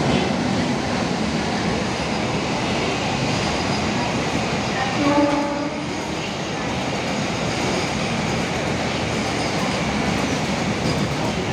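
Container freight train hauled by an Indian Railways WAG-9 electric locomotive passing close by: a steady rumble and clatter of the wagon wheels on the rails. A brief horn note sounds about five seconds in.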